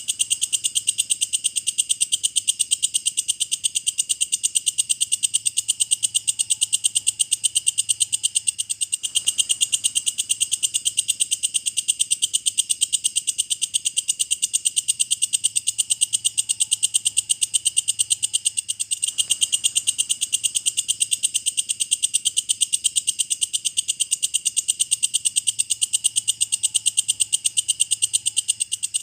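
Walang kecek, an Indonesian katydid (bush cricket), stridulating: a steady, very rapid, high-pitched trill with no pauses.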